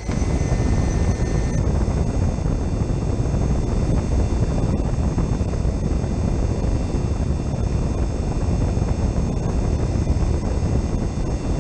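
Steady, loud fan and machinery noise from a running walk-in cooler refrigeration system.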